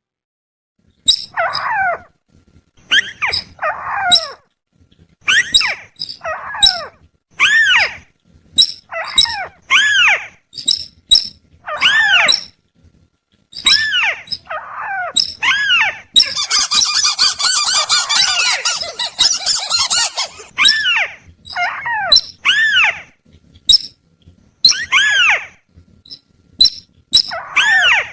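Bird-trapping lure recording of sintar and tikusan (crake) calls: short arched calls that rise and fall in pitch, repeated about once a second with sharp high clicking notes between them, and a dense rattling trill about 16 seconds in lasting some four seconds.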